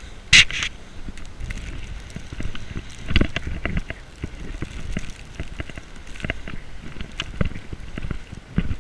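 Footsteps crunching through deep snow, with rustling and handling knocks on a body-worn camera; a sharp loud rustle or bump about half a second in.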